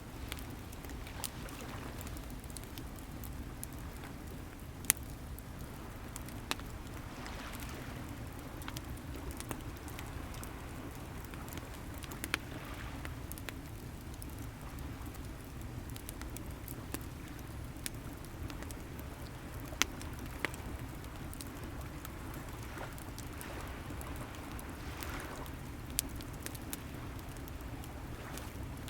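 Wood bonfire crackling with scattered sharp pops, the loudest about five seconds and twenty seconds in, over a steady low wash of sea waves that swells softly every few seconds.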